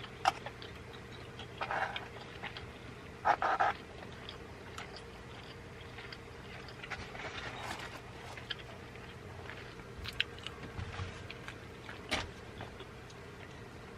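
A steady low hum with scattered small clicks and a couple of brief rustles, the louder ones about two and three and a half seconds in.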